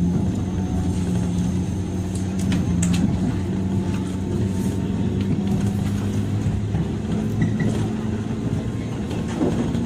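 Running noise heard inside the motor car of a JR 103 series electric train: a steady low hum from the traction motors with wheel-on-rail noise and a few sharp clicks. The hum's pitch steps slightly higher near the end.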